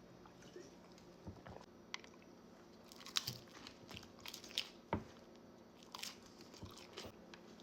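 Close-up eating of nachos: crisp tortilla chips crunching irregularly between bites and chewing.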